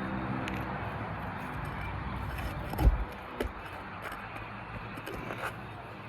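Roof repair work on asphalt shingles: small scrapes and clicks as shingles are lifted and nails pulled, with a sharp knock about three seconds in. A low engine hum runs under the first half.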